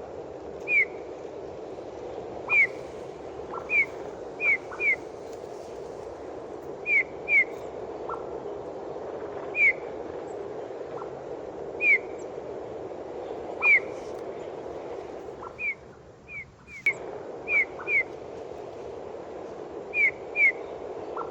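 A songbird repeating short, downward-sliding whistled notes, singly or in quick pairs, every second or two, over a steady low rushing background. The background briefly drops away about two-thirds of the way in.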